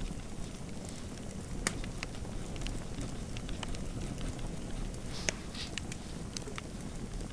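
Fireplace fire crackling: a steady low rumble of burning with scattered sharp pops, the loudest about a second and a half in and about five seconds in.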